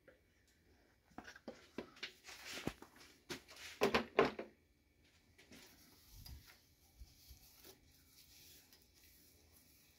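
Scattered light clicks and knocks of metal tools and engine parts being handled, with the loudest pair of knocks about four seconds in, then only a few faint ticks.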